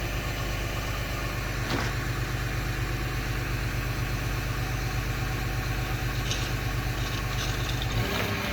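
Cat 259 skid steer's diesel engine idling steadily, with a faint click about two seconds in; near the end its low hum changes note.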